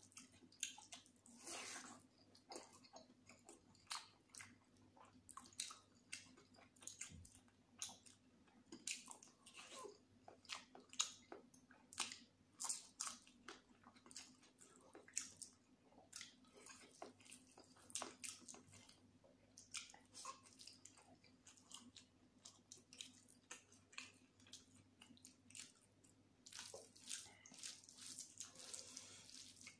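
Soft, close-up eating sounds of someone chewing mouthfuls of chicken biryani, with many short wet smacks and clicks of the mouth throughout.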